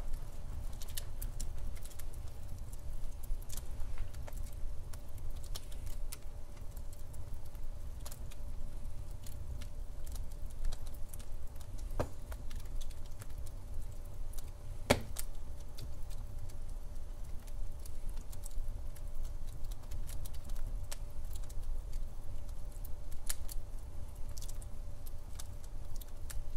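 Log fire burning in a fireplace: scattered crackles and small pops over a low steady rumble of flames, with two sharper pops near the middle.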